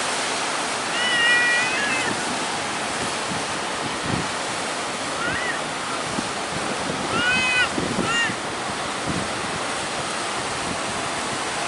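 Heavy surf and strong wind, a steady rushing noise. Several short high-pitched arched calls cut through it, about a second in and again around seven to eight seconds in.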